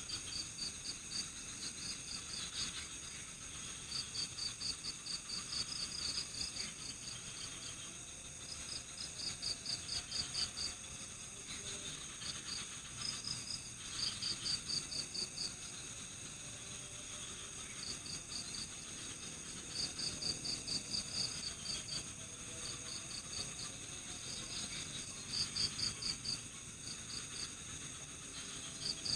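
Night insect chorus: crickets chirping in short trains of rapid high pulses that come and go every second or two, over a steady, higher-pitched insect drone.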